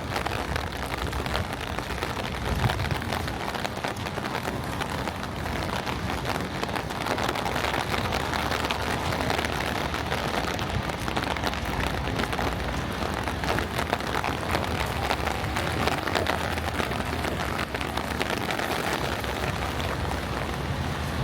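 Steady rain patter, dense fine drops, over a low rumble of wind on the microphone.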